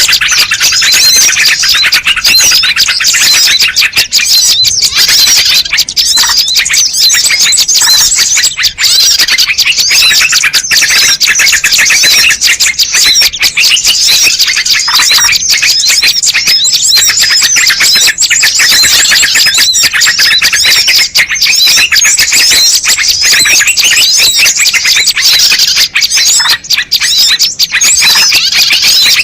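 Bird-lure recording: a dense, loud, unbroken chatter of many small birds chirping and twittering over one another, high-pitched throughout.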